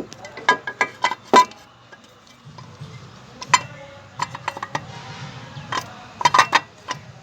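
Metal tools and bolts clinking and clicking against the engine's steel mount bracket as an engine mount is bolted back on: a string of sharp, irregular metallic clicks, some with a short ring, with a cluster of quick clinks near the end.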